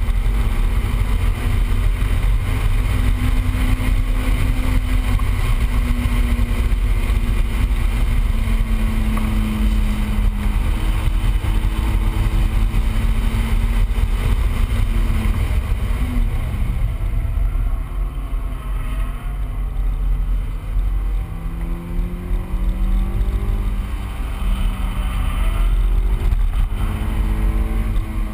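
Heard from inside the cabin, a stock 2000 Honda S2000's 2.0-litre four-cylinder engine is driven hard on track over a heavy low rumble of road and wind noise. Its pitch climbs slowly for the first half, drops about sixteen seconds in, then climbs again in shorter steps.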